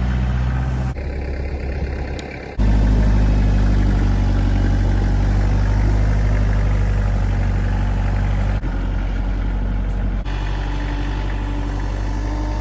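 Vehicle engine running steadily at low revs. The sound changes abruptly a few times, as if separate takes were cut together.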